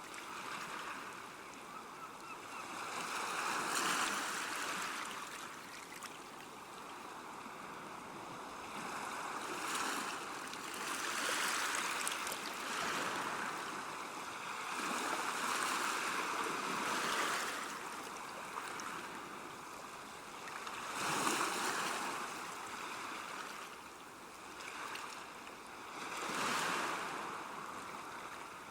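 River water rushing along a bank, a steady wash that swells and eases every few seconds.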